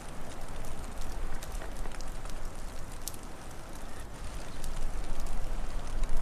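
Wood fire crackling, with scattered sharp pops over a steady low rumbling hiss of the flames and wind.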